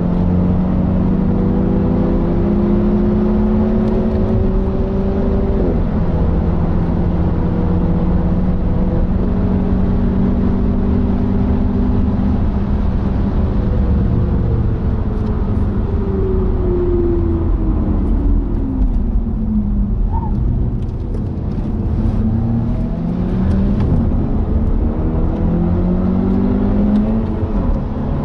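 BMW 420i Gran Coupe's turbocharged four-cylinder with a Bastuck catback exhaust, heard from inside the cabin over heavy road and wind noise. The engine pulls hard through the gears, its note climbing and dropping at each upshift. Past the middle the revs fall away under braking, then climb again in short steps.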